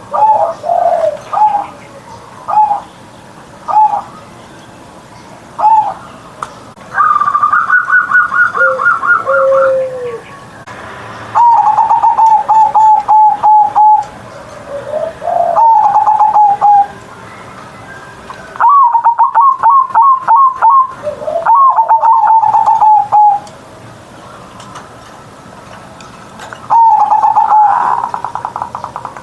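Zebra dove (perkutut) cooing. It starts with a few short single coos, then gives longer phrases of rapid, rolling repeated notes with short pauses between them.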